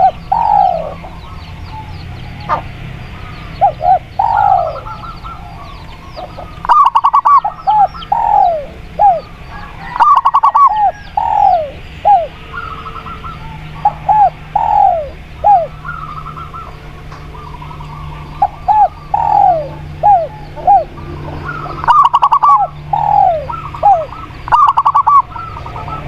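Spotted dove and zebra dove cooing: repeated phrases of short falling coo notes, broken four times by quick stuttering runs of notes. Faint chirps of small birds and a low steady rumble run underneath.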